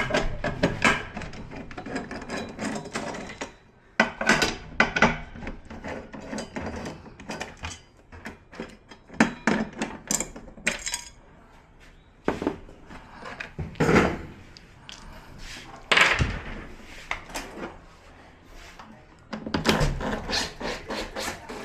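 Irregular knocks and clatter of tools and parts being handled on a repair bench.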